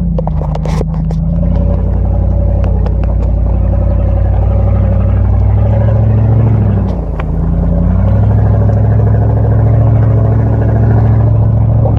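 Dodge Ram pickup's engine running steadily as the truck climbs a dirt mountain trail. Its note dips briefly about seven seconds in, then picks back up, with a few clicks and rattles near the start.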